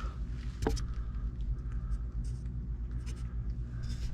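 Small clicks and scraping of screws being set as a small electrical box is fastened in place, over a steady low hum.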